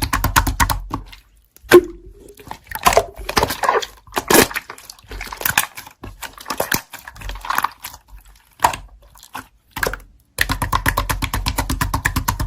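Slime being squeezed and poked by hand. Fast runs of small clicks come at the start and again over the last two seconds, with irregular squishing and crackling sounds in between.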